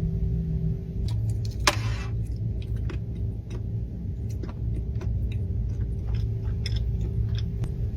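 Close-miked eating: irregular small clicks and crunches of chewing, with one sharper crack about two seconds in, over a steady low rumble.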